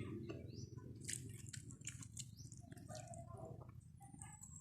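Faint wet chewing and short mouth clicks and smacks of someone eating rice-vermicelli noodles with stewed beef.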